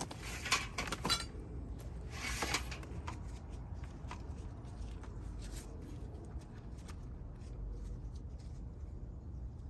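Morning glory vines and roots being pulled from a garden bed by hand: two louder bursts of rustling and tearing in the first few seconds, then scattered small crackles.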